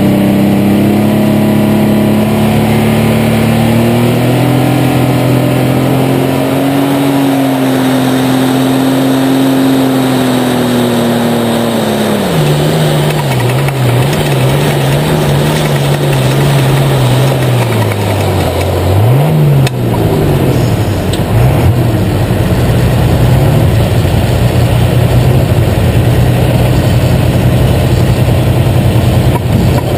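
Super stock pulling tractor engine heard on board at full throttle, its pitch held high and climbing slightly for about ten seconds, then falling away. For the rest, the engine runs at lower revs with its pitch wavering up and down and a rough, loud exhaust.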